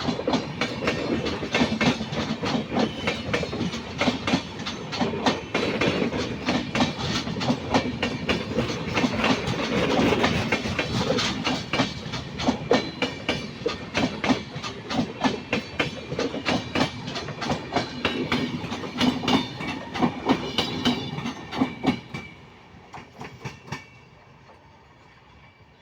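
Train wheels clattering fast and rhythmically over the rail joints, with a low rumble beneath. About 22 seconds in the clatter breaks off, leaving a few last clicks that fade away.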